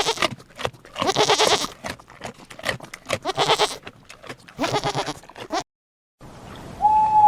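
A sheep or goat bleating in four loud, wavering calls, about a second apart. After a brief total silence near the end, a single steady hooting call begins.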